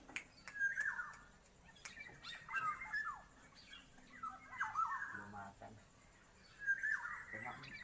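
Black-naped oriole (kepodang) singing: four short whistled phrases of slurred, falling notes, about two seconds apart.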